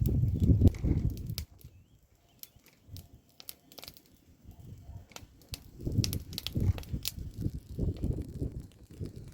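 Crunching and rustling of dry brush, like leaves and twigs being trodden or handled, in two spells: one at the start and a longer one from about six seconds in, each with low rumbling thuds and scattered sharp cracks.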